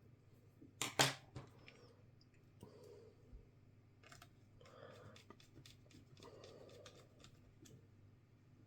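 Hands working on a laptop's parts: one sharp click about a second in, then lighter clicks and short rustling handling noises.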